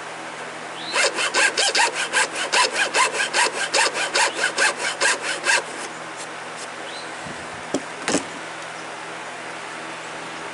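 Hacksaw cutting a groove line into oak, with rapid back-and-forth strokes, about five a second, for some four and a half seconds before it stops. Two light knocks come a couple of seconds later.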